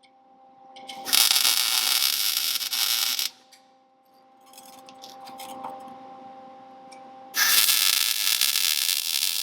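MIG welder arc crackling and sizzling in two runs of a few seconds each, welding thin-wall exhaust tubing, the first starting about a second in and the second near the end, over a steady low hum.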